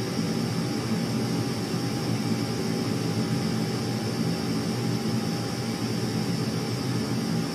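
Steady, unchanging low rumble of aircraft engines, with a thin steady whine above it.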